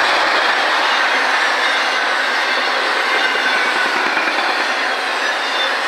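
Cars of a CSX intermodal freight train rolling past at close range: a steady, loud rumble and rattle of steel wheels on rail, with faint high wheel squeal now and then.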